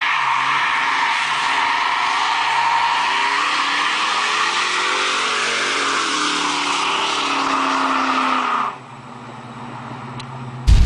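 A car's tires squealing over a revving engine whose pitch rises and falls. The squeal stops abruptly near the end, leaving a quieter steady engine hum, and a loud sudden sound breaks in at the very end.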